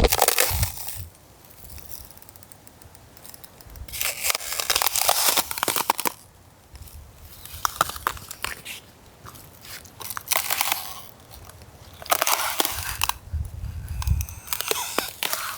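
Crisp autumn leaves crunching, in about six separate bursts of crackling with short quiet gaps between.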